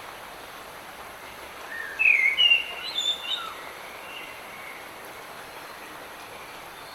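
Steady hiss of light rain with a bird singing a short warbling phrase of rising and falling whistles about two seconds in.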